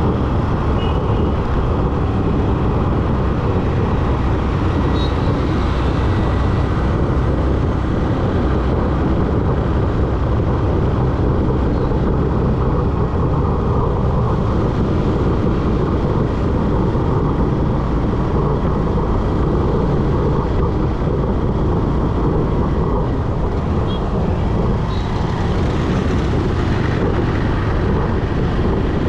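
Steady road noise from a moving motorcycle: a dense, low wind-and-engine rumble with passing traffic around it.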